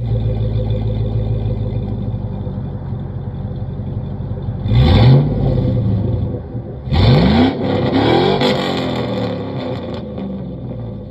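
2004 Chevy Silverado's 5.3-litre V8 with a straight-piped exhaust, idling and then revved: one short blip of the throttle about halfway through, then two more revs in quick succession, each time dropping back to idle.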